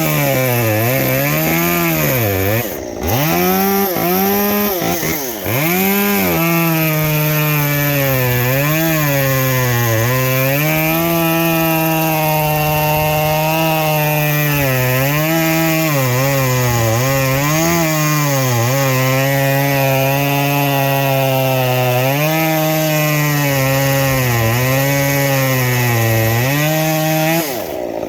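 Stihl MS 193T top-handle two-stroke chainsaw with a muffler mod, revved a few times and then cutting wood at full throttle for about twenty seconds. The engine pitch dips under load and recovers again and again, and the saw drops off near the end.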